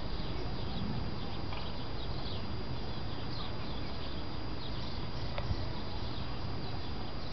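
Birds chirping repeatedly in short, quick notes over a steady outdoor background noise, with one small tick about five and a half seconds in.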